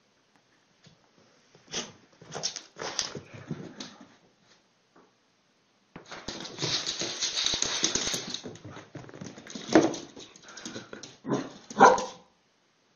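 A dog barking in short bursts, with a few seconds of noisy sound in the middle.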